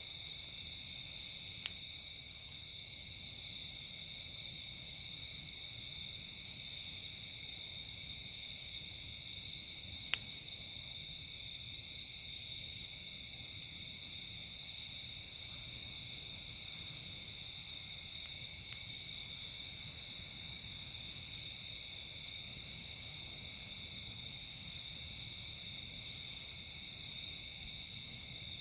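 Steady night chorus of crickets and other insects, with a higher buzzing layer that comes and goes every few seconds. A few sharp pops from a crackling campfire break through: one about two seconds in, one about ten seconds in, and two close together later on.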